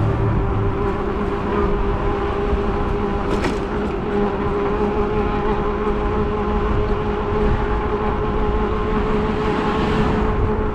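E-bike underway: a steady electric-motor whine over wind and road rumble, with a brief click about three and a half seconds in.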